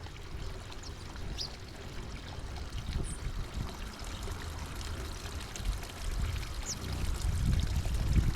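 Steady running, trickling water with low rumbling underneath, and a few brief, faint high bird chirps scattered through it.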